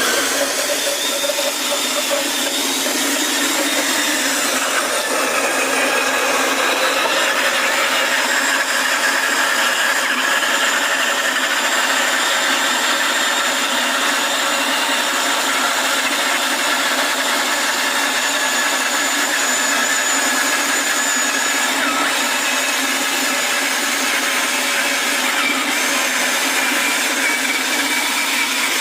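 A small motor or power tool running steadily, with a whine of several tones that drift slowly.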